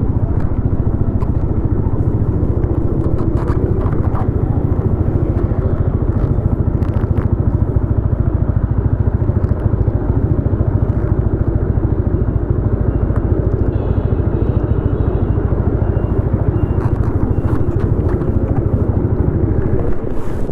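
Yamaha XSR155's single-cylinder engine running through a DIY aftermarket exhaust while riding, a steady low pulsing exhaust note.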